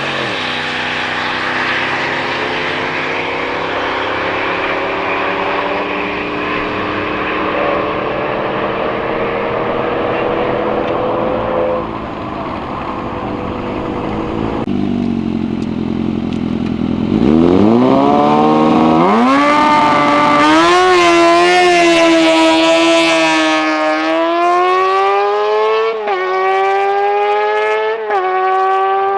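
Drag cars' engines at full throttle making a pass. One engine note climbs slowly and fades down the strip, then about 17 seconds in another launches hard and revs up through the gears, the pitch dropping briefly at each shift, four or five times.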